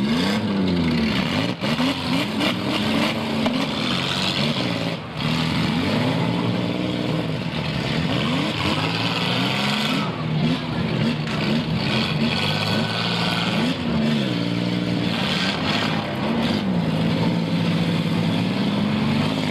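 Several demolition derby car engines revving hard, their pitch rising and falling over and over as the cars accelerate, reverse and ram one another.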